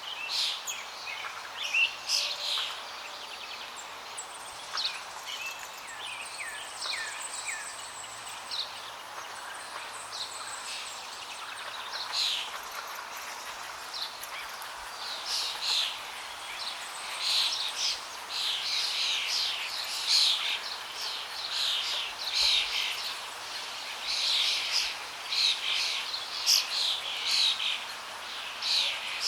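Several birds chirping and singing in quick, short calls over a steady hiss of flowing water; the bird calls grow much busier in the second half.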